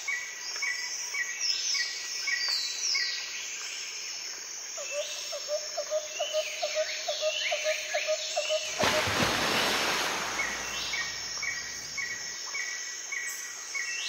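Birds calling: many short falling chirps and quick rows of repeated notes, including a run of about three low notes a second in the middle. A rush of wind noise covers them for about two seconds, starting near nine seconds in.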